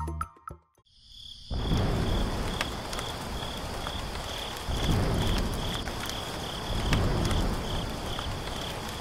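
Music stops right at the start. From about a second and a half in, a steady outdoor ambience of insects chirping, a high chirp repeating about twice a second over a low rumble.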